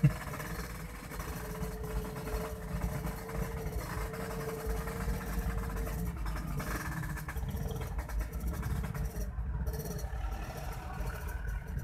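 Yamaha RX-King two-stroke motorcycles running in a group, heard from inside a car behind them: a steady low engine rumble, with one engine note held for several seconds in the first half. A brief sharp thump right at the start.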